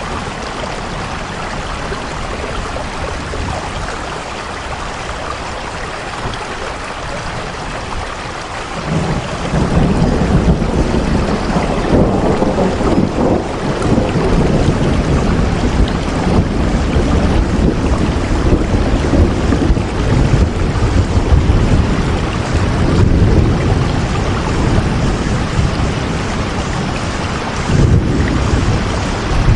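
Steady rain falling, joined about a third of the way in by a long low rumble of thunder that swells and rolls on, with another swell near the end.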